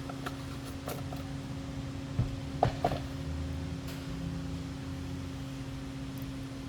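A steady mechanical hum, with a few short clicks and knocks as parts of a string trimmer are handled during a tune-up, around one second in and again between two and three seconds.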